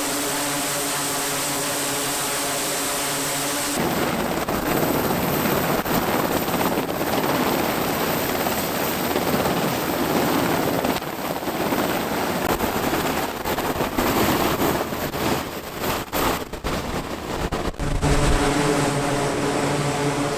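Aircraft engine noise: a steady pitched hum at first, switching abruptly about four seconds in to a loud, even rushing roar, with the pitched hum returning near the end.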